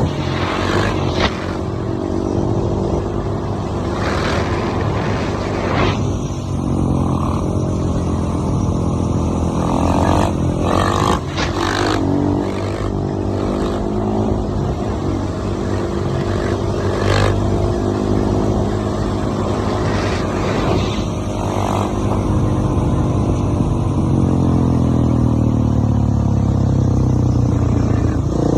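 Dirt bike engine running under load on a desert ride, its pitch rising and falling as the throttle opens and closes, with occasional brief noisy gusts.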